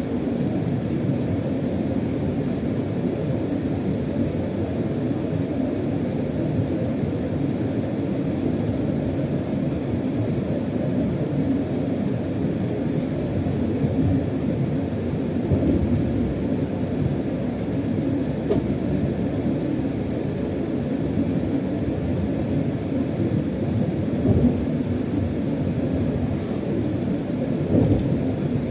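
Steady rumble of a freight locomotive heard from inside its cab while the train runs along, with a couple of brief louder knocks near the end.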